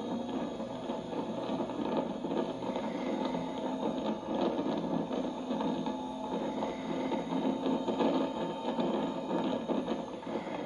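Onboard sound of a car on a race track, played back through a computer monitor's speakers: the engine running at speed with wind and road noise, a steady mechanical drone.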